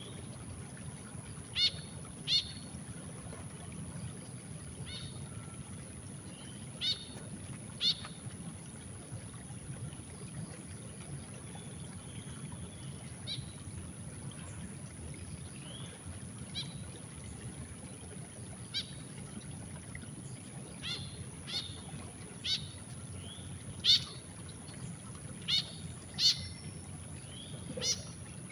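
Short, sharp bird chirps, singly and in quick pairs, every second or two, over a steady low rush of river water. A constant thin high-pitched tone runs underneath.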